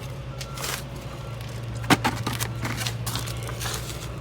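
Engine oil draining from the sump into a drain pan, a stream of liquid splashing with scattered crackles, over a steady low hum. A sharp knock about two seconds in.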